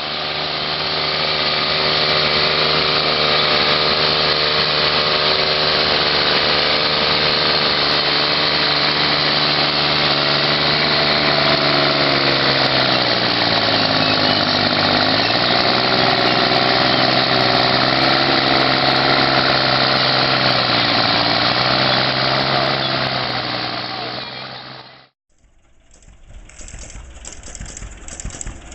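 A small engine on a homemade mini tractor running steadily. About halfway through its pitch sags, then it picks back up. It cuts off suddenly near the end and a different, rougher engine sound follows.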